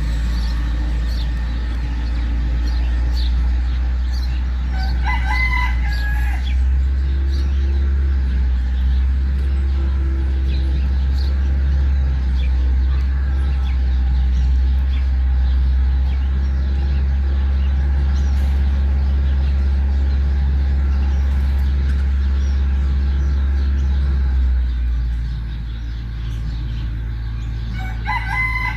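A rooster crowing twice, once about five seconds in and again near the end, over a loud steady low rumble.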